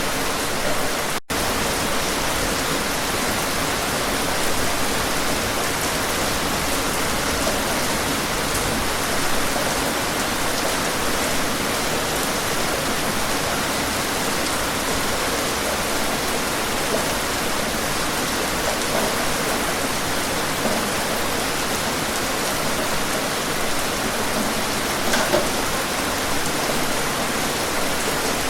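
Steady, even rain falling on a surface, with a few individual drops ticking through it. The sound cuts out for a split second about a second in, then carries on unchanged.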